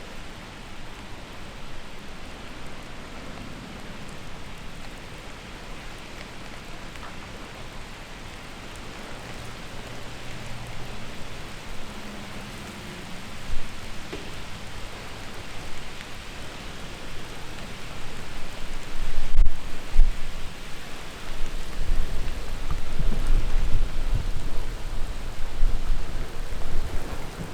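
Heavy thunderstorm rain hissing steadily, getting louder in the second half as strong wind gusts add low rumbling and buffeting, with one sharp loud blast about two-thirds of the way through.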